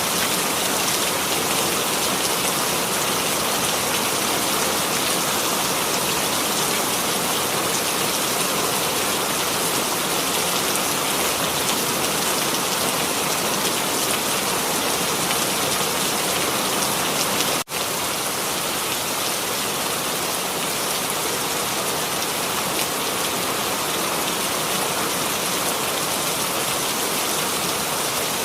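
Rain sound effect: steady rainfall with an even hiss, briefly cut by a split-second gap about two-thirds of the way through.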